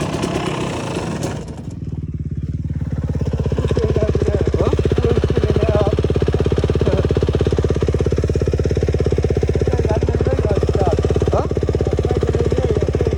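Motocross bike engine running on the throttle, then cutting back about a second and a half in and settling into a steady, evenly pulsing idle.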